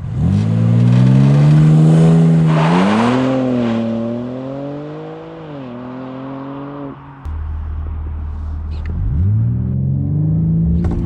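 BMW M4 Competition's twin-turbo straight-six accelerating hard: the revs climb with a couple of brief dips at the gear changes, then fall away sharply about seven seconds in. After a short steady low hum, the revs rise again near the end as another acceleration run begins.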